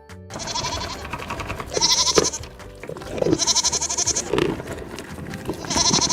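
Goat bleating four times, each a wavering, trembling call.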